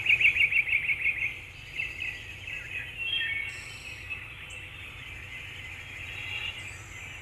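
Birds chirping over a steady background hiss: a fast run of high chirps right at the start, then scattered calls.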